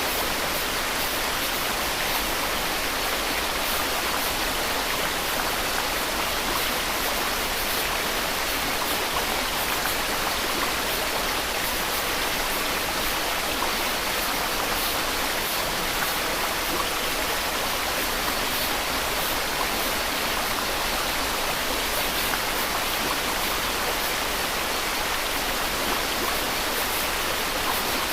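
Steady, even hiss of white noise with no change in level.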